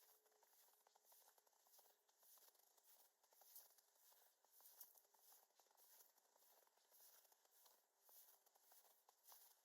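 Very faint footsteps crunching in snow, in a steady walking rhythm of about two steps a second.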